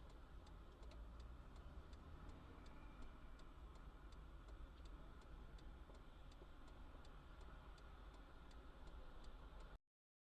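Faint, regular ticking at about three ticks a second over a low rumble. The sound cuts off suddenly near the end.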